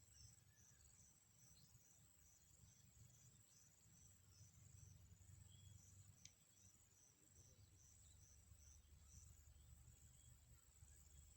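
Faint insects trilling steadily at a high pitch, with a run of evenly spaced short chirps that stops about nine seconds in, over a low rumble. A single sharp click comes about six seconds in.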